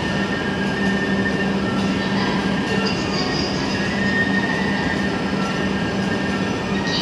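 Hayabusa Shinkansen train standing at the platform, its onboard equipment running with a steady, even hum and a low drone.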